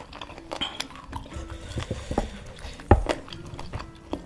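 Close-up eating sounds: chewing crispy fried chicken skin and rice, with wet mouth clicks and short crunches, the loudest crunch about three seconds in.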